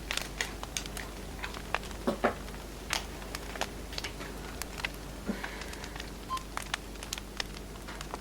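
Burning firewood crackling, with irregular sharp pops and snaps, a few of them louder in the first half.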